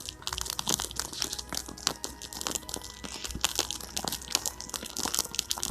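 Small campfire of birch bark and kindling crackling, with many irregular sharp pops as the flames catch.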